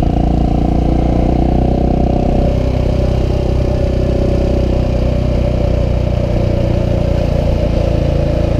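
KTM 690 SMC R's single-cylinder engine running steadily at low revs, loud and even with little change in pitch.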